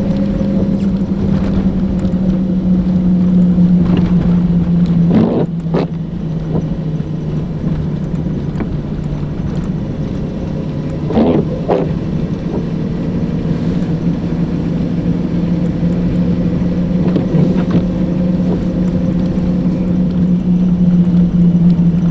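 Car driving, its engine and road noise a steady drone whose pitch dips slightly about five seconds in. A few short knocks come through, once about five seconds in and twice near the middle.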